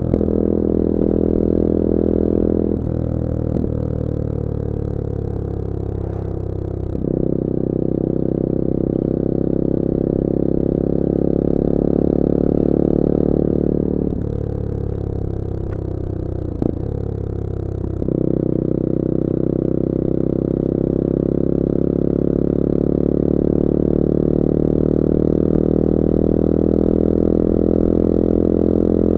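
Bullit Hero 250's CF Moto-engined 250cc four-stroke motorcycle engine running under way: steady at speed, then its note drops and falls off twice as the throttle eases, each time picking back up after a few seconds. A short click sounds partway through the second drop.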